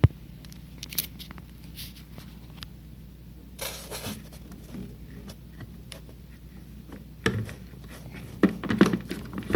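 Scattered clicks, knocks and scrapes of a plastic radio-controlled bait boat being handled, with a brief scrape about four seconds in and a cluster of rattling knocks near the end.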